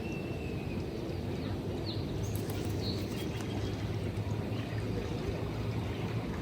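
Small waves lapping against a rocky, sandy shore in a steady wash, with a few faint bird chirps and a low steady hum underneath.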